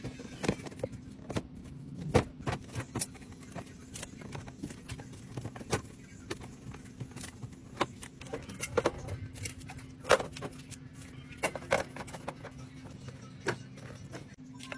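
Irregular clicks, taps and knocks of plastic containers and food packages being handled and set down while a fridge is stocked, over a steady low hum.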